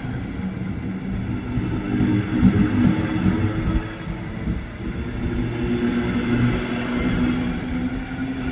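Electric regional express train pulling out of a station: a rumble with several steady humming tones from the drive that shift in pitch as it moves off.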